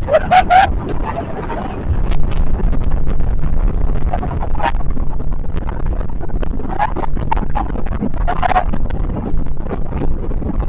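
Wind buffeting the microphone over the steady low drone of a towing motorboat's engine, rising louder about two seconds in, with a few brief shouts from the riders.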